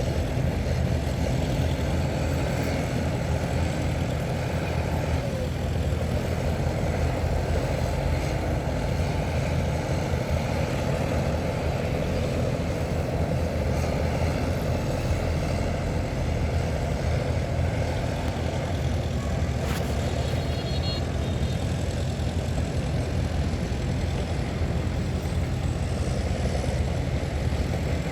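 Heavy diesel earthmoving machinery, bulldozer and dump trucks, running steadily with a deep, even engine sound that holds at one level.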